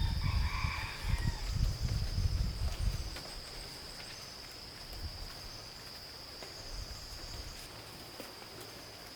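A steady, high-pitched insect drone throughout, with low rumbling noise for the first three seconds and a brief higher sound about half a second in.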